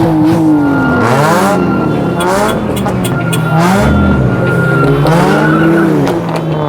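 Car engine revving hard up and down over and over during a burnout, about every second and a half, with tyres squealing against the pavement.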